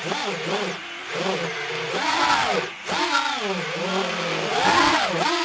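Hypetrain Vanover 1860kv brushless motors on a 4S battery whining under throttle, the pitch rising and falling again and again as the throttle is worked.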